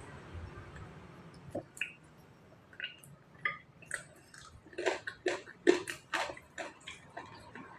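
Irregular small clicks and taps, a few scattered at first, then coming thick and fast about halfway through before thinning out again near the end.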